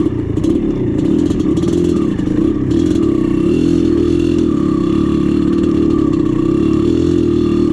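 Two-stroke dirt bike engine running steadily while riding a trail, with a few brief rattles in the first few seconds.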